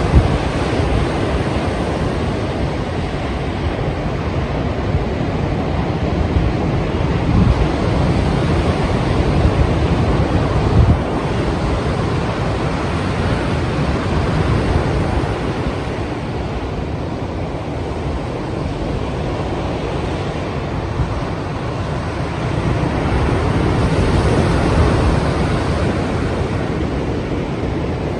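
Strong ocean surf breaking without pause, with wind buffeting the microphone; the rush swells a little louder a few times.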